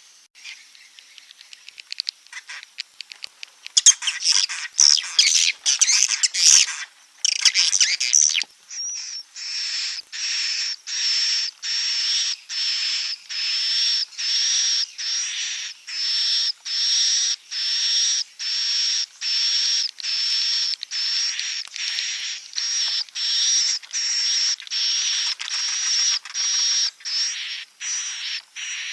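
Swiftlet roosting-call lure recording ('suara inap'), the kind played to draw swiftlets in to roost. It opens with several seconds of irregular high twittering chirps, then settles into a steady run of buzzy calls repeating about three every two seconds.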